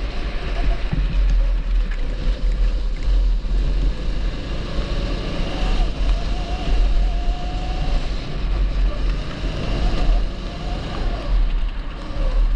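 TB rental kart's 270cc single-cylinder four-stroke engine running on track, its note rising and falling with throttle through the corners, over a heavy low rumble of wind on the onboard microphone.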